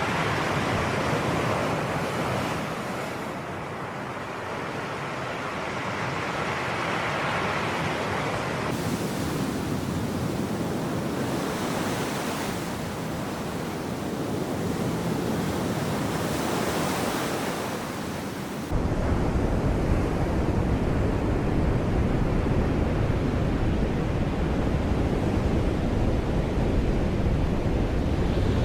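Sea waves washing in surf, a steady rushing that swells and eases. About two-thirds of the way in, a deep rumble of wind on the microphone suddenly comes in and makes it louder.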